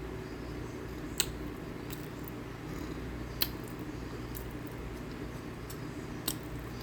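Someone eating cornstarch: two sharp crunching clicks, about two seconds apart, and a fainter one near the end, over a steady low hum.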